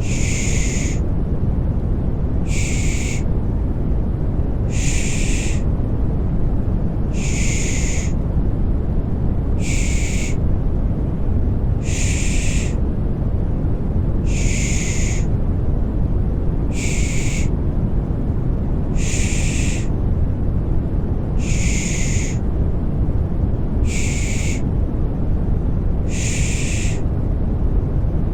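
Rhythmic 'shh' shushing for soothing a baby to sleep, one short hissing shush about every two seconds, over a steady low white-noise bed.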